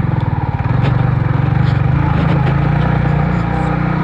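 Motorcycle engine pulling hard under load up a steep, rough, washed-out track, its revs rising about a second in and then holding steady. Light ticks and rattles are heard over it.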